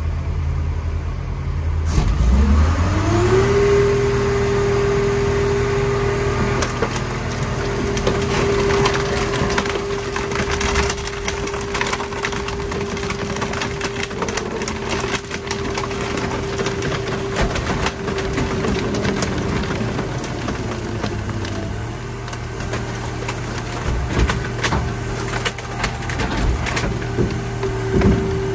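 Car crusher at work: its engine speeds up about two seconds in and holds a steady whine under load while the car body crunches and cracks as it is flattened.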